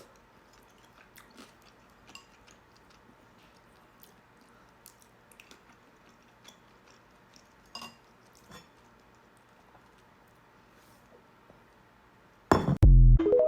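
Quiet close-up chewing of mini wontons: soft, scattered mouth clicks and small taps, with a slightly louder click about two-thirds of the way in. Near the end a sudden loud burst with a deep thump and a few short pitched tones cuts in for about a second.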